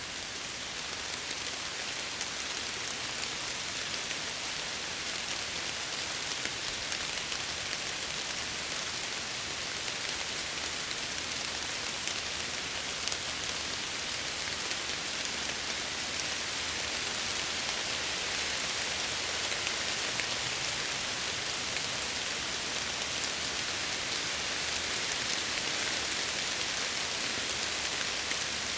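Steady rain falling on window glass: an even hiss dotted with fine drop ticks, growing a little louder in the second half.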